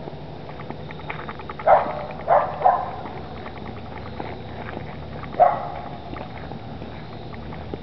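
A dog barking: three short barks close together, then one more about three seconds later, over a low steady hum.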